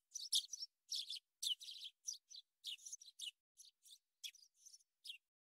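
Birds chirping: a quick run of short, high calls that stops shortly before the end.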